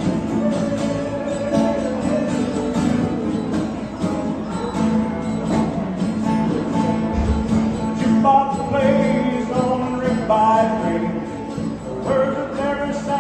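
Country band playing live, with guitar, and a voice singing over it from about eight seconds in.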